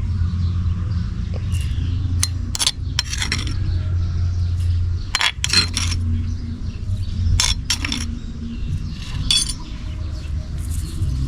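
Scattered sharp clinks and scrapes of hard objects being handled, over a steady low hum.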